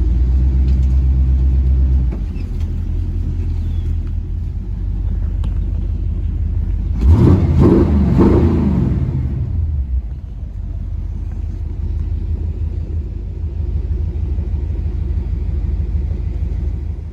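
A vehicle engine running steadily, with a louder stretch about seven seconds in where its pitch sweeps up and down.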